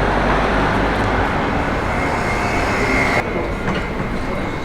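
Loud vehicle noise: a dense rumble with a faint steady high whine that joins about two seconds in, with an abrupt change in the sound a little past three seconds.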